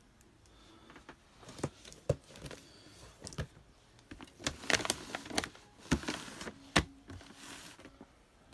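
Scattered light clicks, knocks and brief rustles from fireworks cakes and their cardboard and plastic packaging being handled, busiest in the second half.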